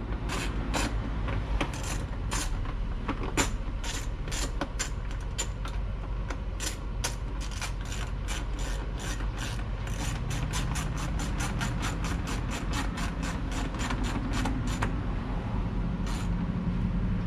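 Hand work on a motorcycle exhaust: a long run of sharp metallic clicks, scattered at first, then about four a second, over a steady low hum.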